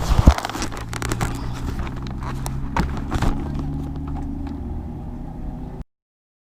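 An engine idling steadily under a low rumble, with several sharp knocks, the loudest about a third of a second in. The sound cuts off abruptly near the end.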